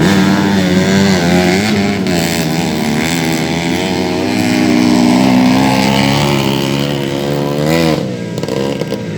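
Several 130cc underbone racing motorcycles revving hard on a dirt track, their engine notes rising and falling as the riders work the throttle, fading a little near the end.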